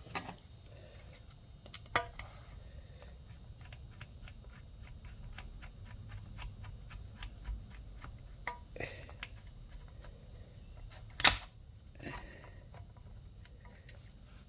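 Hand tools working on a compressor fitting: a run of light, evenly spaced clicks lasting several seconds, with a few sharp metal knocks, the loudest about eleven seconds in.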